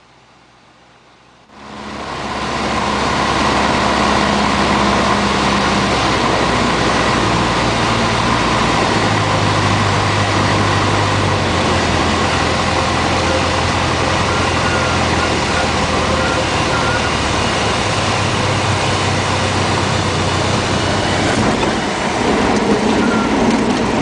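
Cessna 150's four-cylinder Continental O-200 engine and propeller droning steadily as heard inside the small cabin in flight, cutting in abruptly about a second and a half in.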